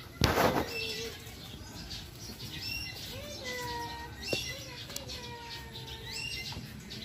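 A bird calling over and over, a short high call repeating about every one and a half to two seconds. A loud brief rustling burst comes just after the start, and a few slow falling whistle-like tones sound in the middle.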